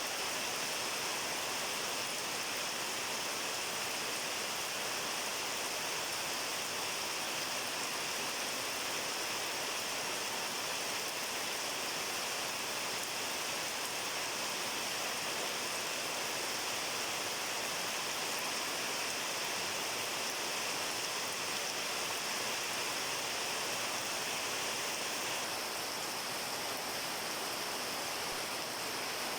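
Steady rain falling, an even hiss of many drops with no distinct single impacts.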